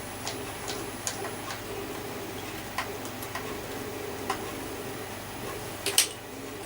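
Scattered light clicks and taps of vacuum cleaner parts being handled and fitted during reassembly, with a louder cluster of clicks about six seconds in, over a steady low hum.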